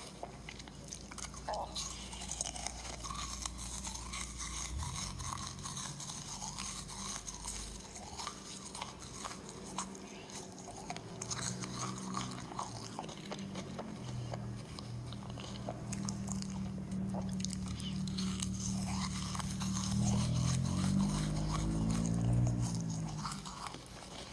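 Crisp meringue cookies crunched and chewed in an ASMR eating video, heard played back through a screen's speaker: many small dry crackles throughout. A low hum grows louder through the second half and wavers in pitch near the end.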